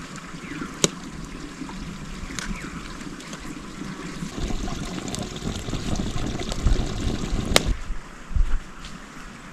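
Water trickling, with a few sharp clicks over it and a low rumble from about four to eight seconds in.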